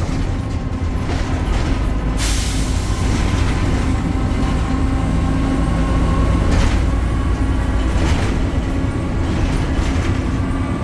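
BredaMenarini Avancity Plus city bus under way, its Deutz Euro 5 diesel engine and ZF transmission making a steady low rumble with a faint steady whine above it. A few short hisses come through, about two-thirds of the way in.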